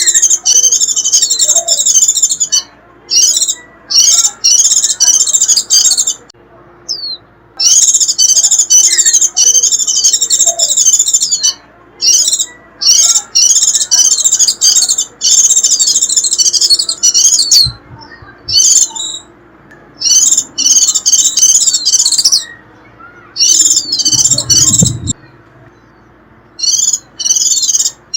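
A white-eye (vành khuyên) giving its rapid, high-pitched 'rít' twittering call in loud bursts of one to four seconds with short pauses between them. This excited call is used to draw wild white-eyes in.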